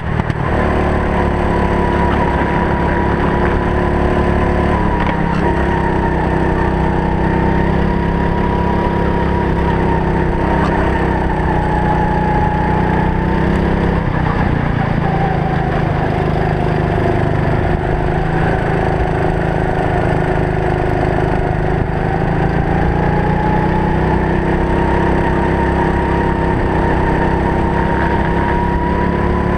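Racing kart engine running hard under load, its pitch slowly falling and rising as the driver lifts and gets back on the throttle through the corners, over a steady rush of wind and road noise on the helmet-mounted camera.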